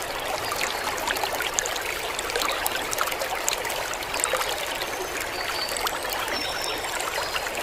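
Steady running, trickling water, full of small splashing ticks.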